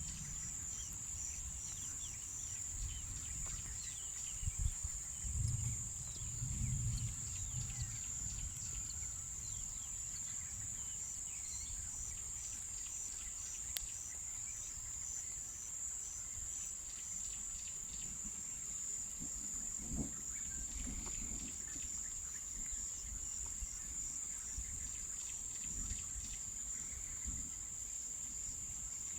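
A steady, high insect trill, typical of crickets, with scattered short bird chirps. A low rumble swells about four to eight seconds in, and there is a single low thud about twenty seconds in.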